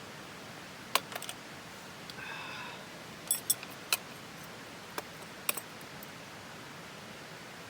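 Several light, sharp clicks and clinks of small hard objects, spaced unevenly, with a brief faint ring in between, over a steady hiss.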